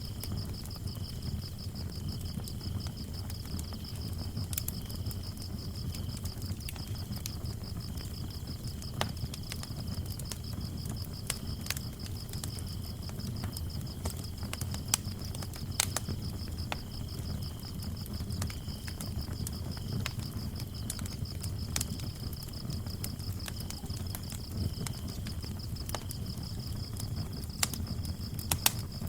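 Wood fire crackling, with scattered sharp pops over a low steady rumble, while crickets chirp in a continuous rapid pulsing trill and a second, fainter cricket chirps on and off.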